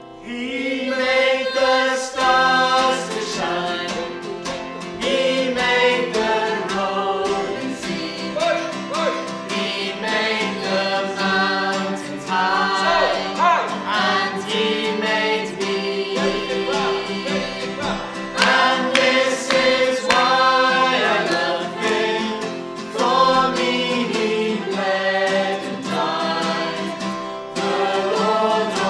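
Choral gospel-style song: a choir singing over guitar accompaniment.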